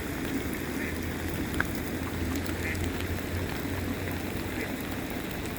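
Floodwater in a swollen creek rushing steadily, a continuous low rush of pouring water.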